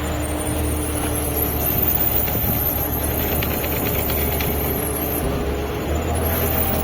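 Fishing boat's engine running steadily under way, a constant low hum mixed with wind and water noise.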